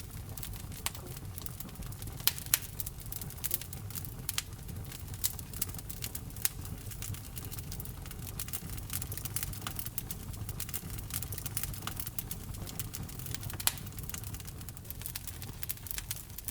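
Wood fire burning in a fireplace: irregular crackling and sharp pops over a low, steady rumble of the flames. A few louder pops stand out, two about two seconds in and another about three-quarters of the way through.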